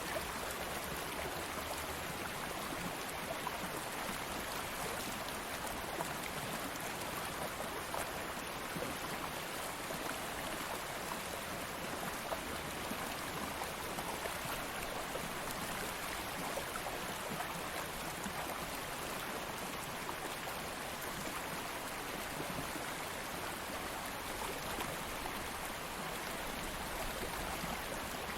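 Stream of water flowing steadily, a constant rushing and burbling without any break or change.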